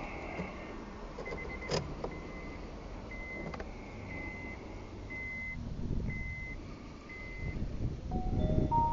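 Electronic warning chime inside a car beeping steadily, one short high beep about once a second, with a single sharp click about two seconds in. Near the end the chime stops and a couple of lower electronic tones sound.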